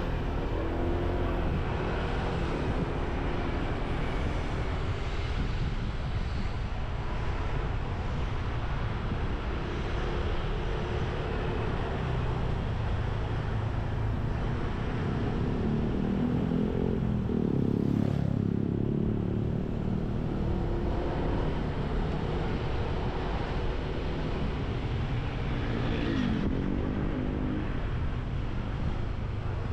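Motorbike engine running on the move, with a steady rumble and wind noise on the microphone; the engine pitch falls and climbs again about eighteen seconds in and rises once more near the end.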